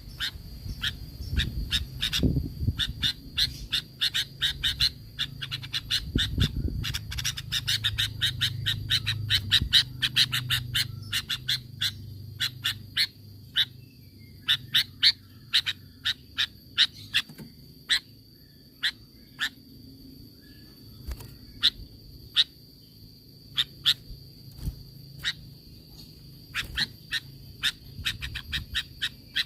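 Sooty-headed bulbul giving a rapid series of short, sharp call notes, several a second and thinning out about halfway through, over a steady high-pitched tone.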